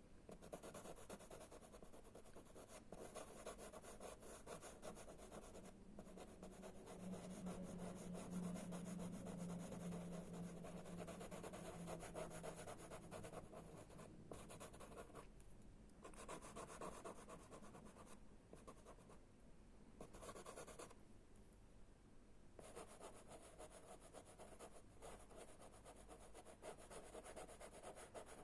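Chalk pastel scratching and rubbing across pastel paper in quick repeated strokes, with short pauses. A faint low hum sounds for a few seconds in the middle.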